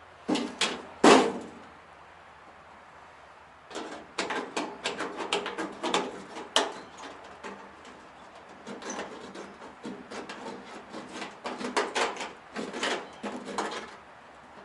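Hand tin opener (can opener) cutting a hole through thin sheet metal: three sharp clicks in the first second or so, then after a pause a fast run of clicking and crunching as the opener is worked along the cut.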